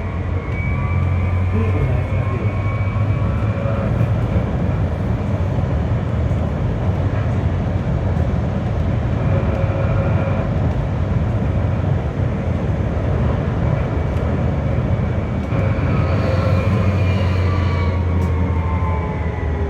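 Berlin GT-type low-floor tram in motion: a steady rolling rumble under the whine of the traction motors. The whine climbs in pitch near the start as the tram picks up speed and falls in pitch over the last few seconds as it slows.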